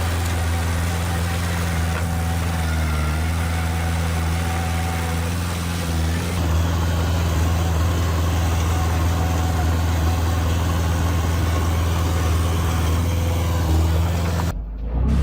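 A heavy diesel engine on earthmoving machinery runs steadily under load with a deep, even hum. The sound cuts out briefly near the end.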